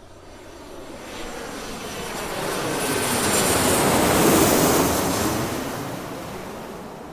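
Airplane engine noise swelling to a peak about four seconds in and then fading, in the manner of an aircraft passing by.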